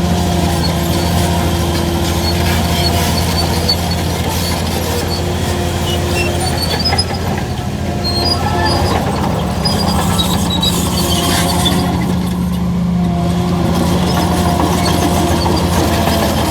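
Bulldozer's diesel engine running steadily under load, with short high metallic squeaks coming and going throughout.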